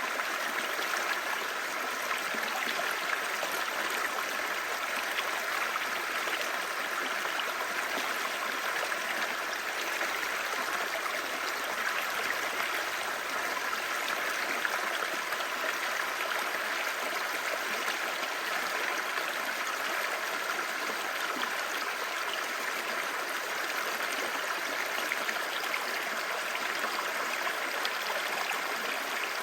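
Clear mountain stream babbling over rocks, a steady, even rush of water.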